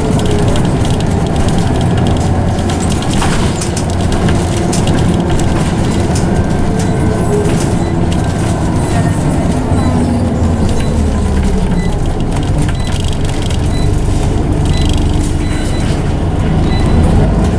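Scania OmniCity bus heard on board, its engine running and its ZF automatic gearbox whining loudly. The whine glides down in pitch about two-thirds of the way through as the bus slows, then starts rising again near the end, over scattered rattles and knocks.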